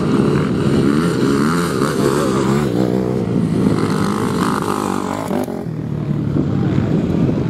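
Motocross bike engines racing, several at once, each revving up and down so that their pitches overlap and shift.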